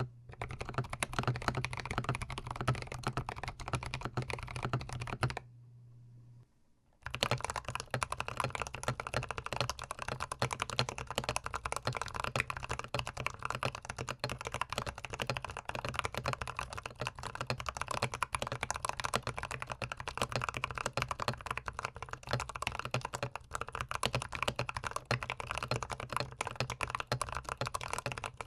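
Fast, continuous typing on a GMMK PRO mechanical keyboard, the keystrokes recorded close up. About five and a half seconds in, the typing stops for a second and a half, then resumes.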